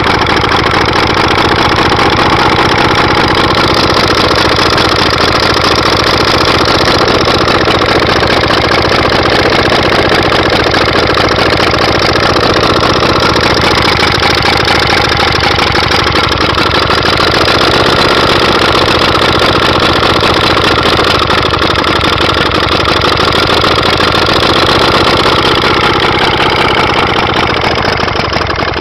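1930s Penguin 3 1/4 HP two-stroke marine engine running steadily on its rapid, even firing pulses, with slight rises and falls in speed. The engine has low compression.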